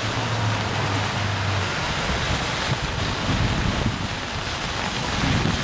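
Steady rain with wind buffeting the microphone; a low steady hum underneath stops about a second and a half in.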